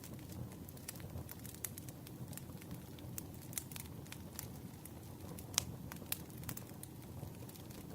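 Campfire crackling: a wood fire's low steady rumble with frequent, irregular sharp pops and snaps.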